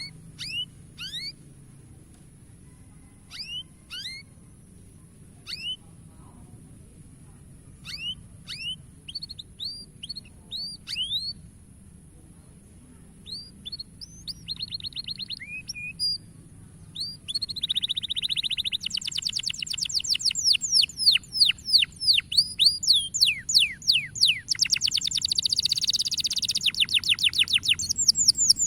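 Domestic canary singing: separate quick upward-sweeping chirps at first, then from about halfway a rapid trill that builds into a fast, continuous run of repeated notes.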